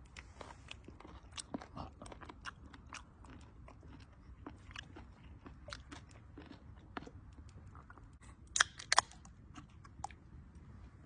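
Close-up chewing of charcoal-grilled chicken cartilage, a run of irregular crunches, with a few sharper, louder clicks about eight and a half seconds in.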